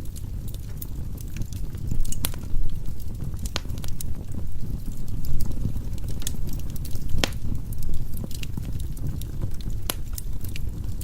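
Wood fire burning in a fireplace: a steady low rumble of the flames with irregular sharp pops and crackles from the burning logs, a few louder snaps scattered through.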